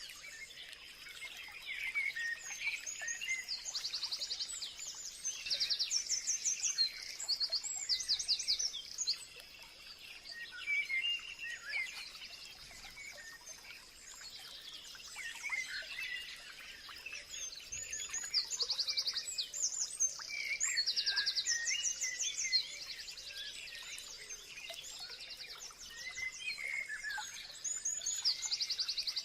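Several wild birds chirping and singing together: short chirps and gliding whistles mixed with bursts of fast high trills, which come and go in waves. A faint steady high tone runs underneath.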